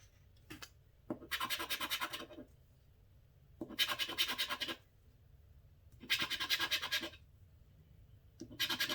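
Scratching the coating off a scratch-off lottery ticket: four bursts of quick rasping strokes, each about a second long, with short pauses between.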